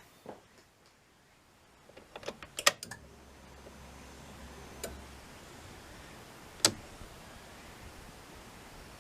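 Sharp clicks and knocks of small hard parts being handled: a quick cluster about two to three seconds in, another near five seconds, and a single loud click near seven seconds.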